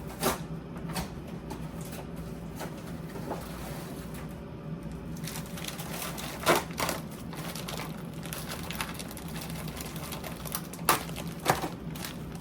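Grocery boxes and packaging being handled and set down: four sharp knocks, about a second after the start, midway and twice near the end, with light rustling between, over a steady low hum.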